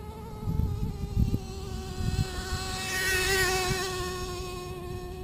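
Truck driving along: a steady high buzzing drone from the engine and drivetrain, with wind buffeting the microphone in low thumps. A rushing noise swells about three seconds in and then fades.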